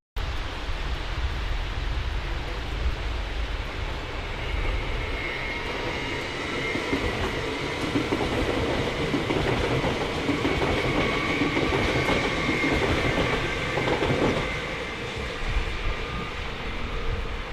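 A train moving along the track, its wheels clattering over rail joints, with a thin high whine that rises in the middle and fades near the end.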